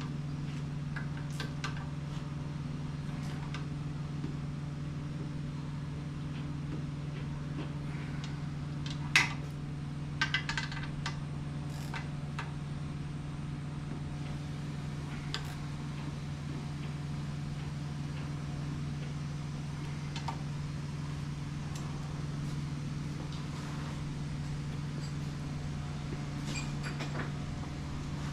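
A steady low electrical hum throughout, with scattered metallic clicks and clinks of hand tools as bolts on an outboard lower unit are worked on. The sharpest click comes about nine seconds in, and a few more follow over the next few seconds.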